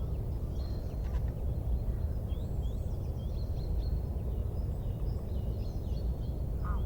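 Small birds chirping over and over in short, high, quickly gliding calls above a steady low rumbling noise.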